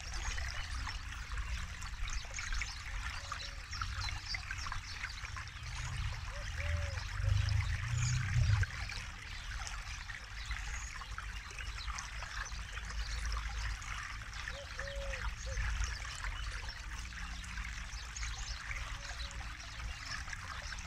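A forest river flowing: steady babbling and trickling water, with a low rumble that swells about six to nine seconds in. A few short, low gurgles come and go throughout.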